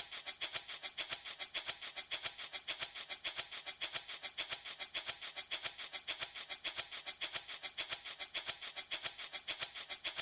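Handmade wooden baby rattle shaken in a fast, even rhythm that doesn't let up, each shake a crisp, hissy rattle of loose beads or pellets.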